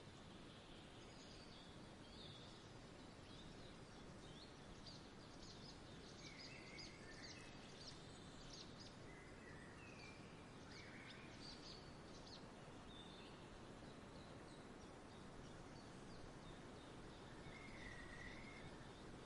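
Faint outdoor nature ambience: small birds chirping and calling on and off over a steady soft hiss, busiest in the first half, with one more call near the end.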